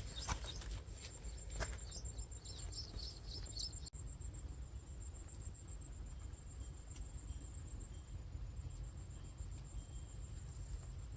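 Insects trilling steadily at a high pitch, with birds chirping over them for the first few seconds, above a low steady rumble.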